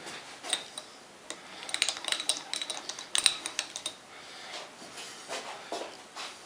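Light metallic clinks and taps, thickest in a cluster from just under two to about three and a half seconds in: small metal tools or parts being handled.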